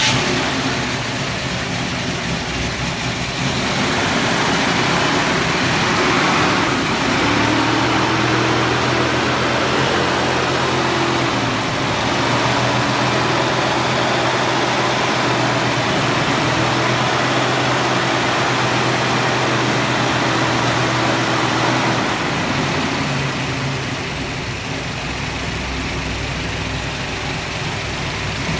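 1967 Camaro's 377 stroker small-block V8 idling steadily just after starting. About 22 seconds in, the running note drops and settles slightly quieter.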